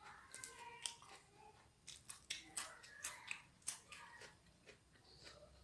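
A person chewing a mouthful of chowmein, a faint irregular run of sharp wet mouth clicks and smacks.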